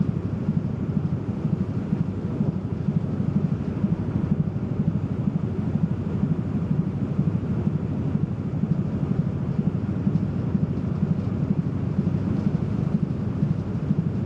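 Car ferry under way: a steady low rumble of its engines and passage through the water, unchanging throughout.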